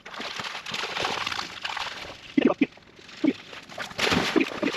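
Water sloshing and splashing from a dog swimming in a pond after a duck, with a few short low voice-like sounds about halfway through and near the end.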